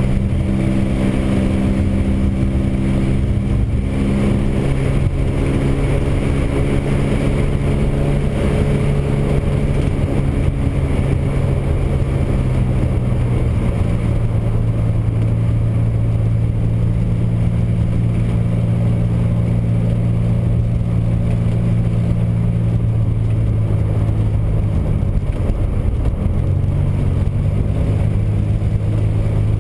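Rear-mounted air-cooled flat-six engine of a 1961 Chevrolet Corvair Rampside pulling steadily on the road with tyre and road noise, heard inside the cab. The engine note drops lower about twelve seconds in and dips briefly near the end before settling.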